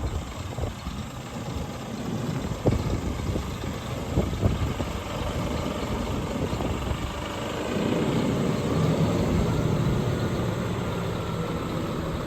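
Scania R480 hook-lift truck's diesel engine idling, with a few sharp knocks in the first half. From about eight seconds in, the engine sound grows steadier and a little louder.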